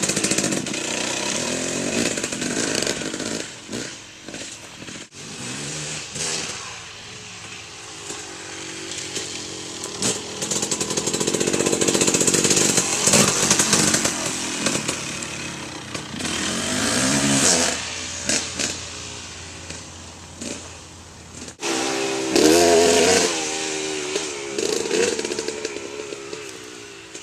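KTM 300 MXC two-stroke dirt bike being ridden around, its engine revving up and down. It grows louder as it comes near, about halfway through and again around 22 seconds in, and fades away toward the end.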